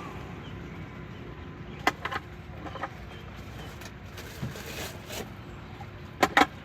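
Steady low street rumble with a few sharp clicks or knocks: two about two seconds in, one near three seconds, and a louder pair a little after six seconds.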